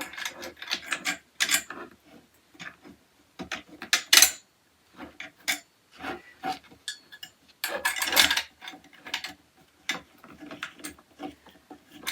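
Irregular clicks, taps and scrapes of metal rack parts and small fittings being handled while the bolts of a flat-pack metal shoe rack are turned in with an Allen key, with a louder cluster of knocks about four seconds in and again near eight seconds.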